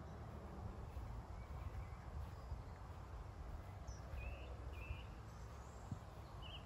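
Countryside ambience: a few short bird chirps in the second half, over a steady low rumble.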